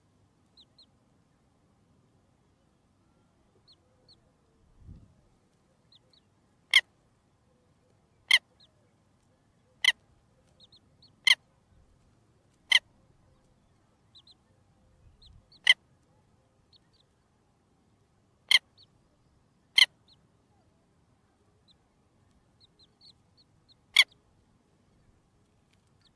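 A bird giving loud, sharp single call notes, nine in all at irregular gaps of one to four seconds, with faint high chirps in between.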